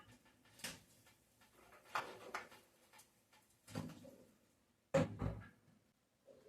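Scattered faint knocks and bumps at irregular intervals, the loudest a sharp knock followed by a low thud about five seconds in.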